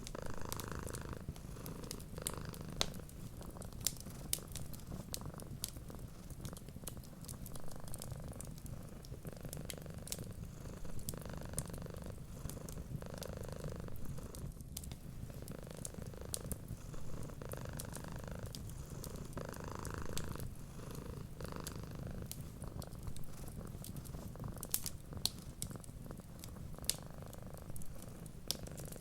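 Cat purring steadily, the purr swelling and easing with each breath, with sharp crackles and pops from a fireplace fire scattered throughout.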